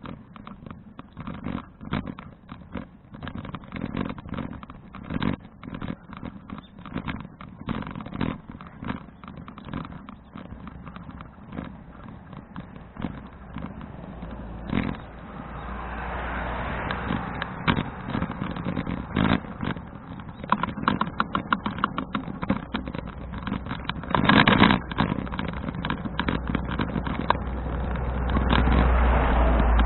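Ride noise from a folding bicycle with a helmet- or bike-mounted action camera: dense irregular rattling and clicking from the bike over a rough surface, then from about halfway wind buffeting the microphone along with tyre hiss, growing louder toward the end, with one brief loud gust a few seconds before the end.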